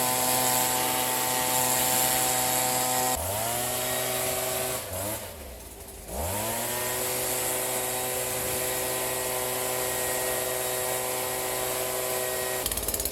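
Small two-stroke engine of a handheld yard tool running at high revs. About three seconds in it drops off, sags almost to idle and then revs back up to a steady high speed. Near the end it gives way to a rapid rattling clicking.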